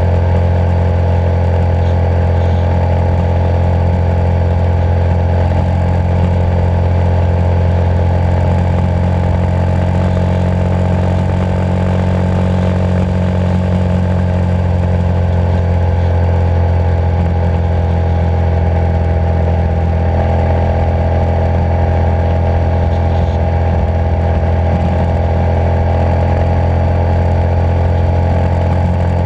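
Motorcycle engine running steadily at cruising speed, a deep, even exhaust note with only small changes in pitch around the middle.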